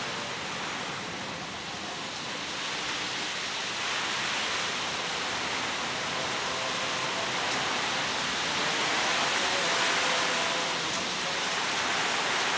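Heavy rain pouring down steadily, getting louder about four seconds in.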